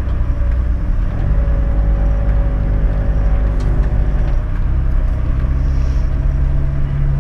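Toyota LandCruiser 105's naturally aspirated 1HZ diesel engine heard from inside the cabin as it crawls along a rutted dirt track. The engine note rises about a second in and settles back down a few seconds later.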